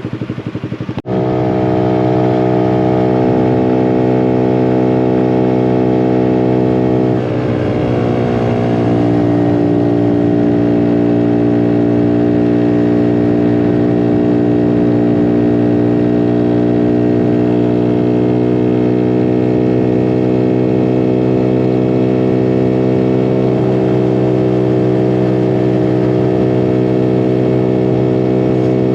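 Small motorcycle engine running under way at a steady, even pitch, getting louder about a second in. About seven seconds in it dips briefly and its pitch glides lower, and it changes again around twenty-three seconds in, as with a throttle change or gear shift.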